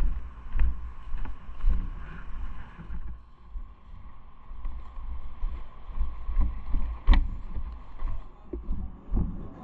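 Uneven low rumble of wind and motion noise on a moving camera's microphone during a bike ride, with a faint steady hum and a single sharp click about seven seconds in.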